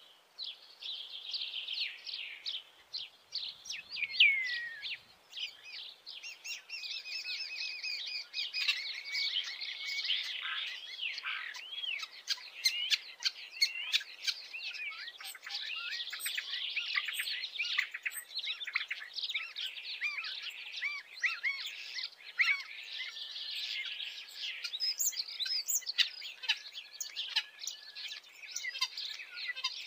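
Birds singing, a continuous run of quick high chirps, trills and short whistles.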